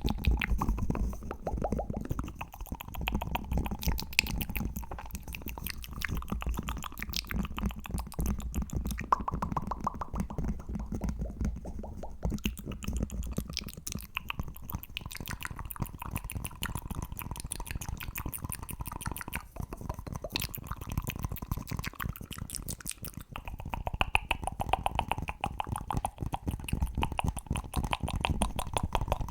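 ASMR mouth sounds mixed with fast, continuous tapping: a dense run of quick clicks, many to the second, without a break.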